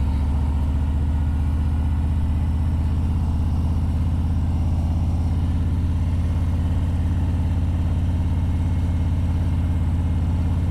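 Harley-Davidson Road Glide's V-twin engine running steadily, a deep even rumble with no change in pitch.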